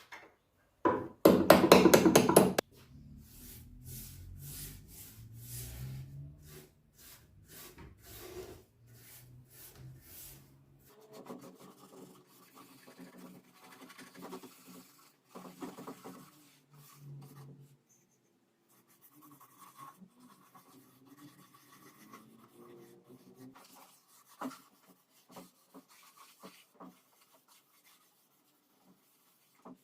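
A loud burst of rapid clicking lasting about a second and a half, followed by on-and-off rubbing and scraping as parts of a restored manual machine are worked by hand.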